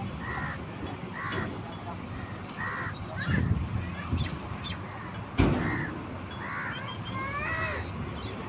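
Birds calling: a harsh call repeated roughly once a second, with a few higher chirps in between. A sharp knock sounds about five seconds in.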